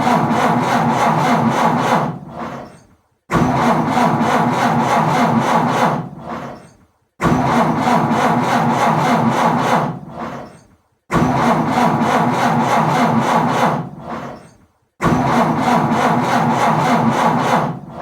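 An old car's starter motor cranks the engine in about five tries, each around three seconds long, with a short pause between them. The engine never catches: a car struggling to start and failing.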